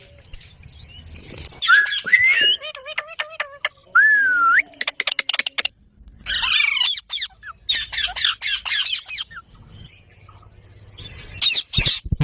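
Parrots calling in bursts: whistled notes that swoop up and down, a fast clicking chatter, and harsh squawks, with short pauses between the bursts.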